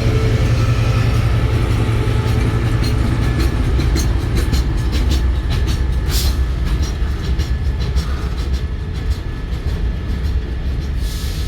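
Thai-built passenger train running, a steady low rumble with scattered clicks and rattles from the running gear, one louder click about halfway through.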